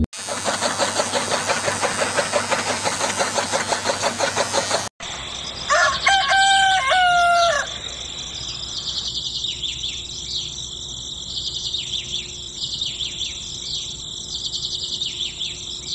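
A dense, evenly pulsing rattling noise that cuts off suddenly about five seconds in, then a rooster crows once, followed by small birds chirping repeatedly.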